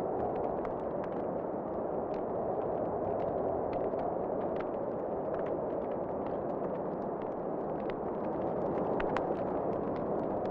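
Wood fire crackling in a fireplace: frequent small sharp pops over a steady rush of wind.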